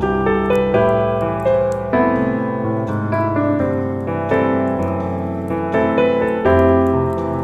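Gentle piano music: chords and melody notes struck every half-second to a second, over a low bass line.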